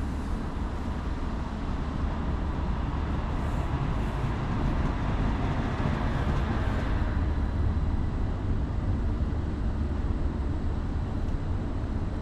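Steady low rumble of trains standing and shunting at a railway platform, with a hiss that swells for a few seconds midway.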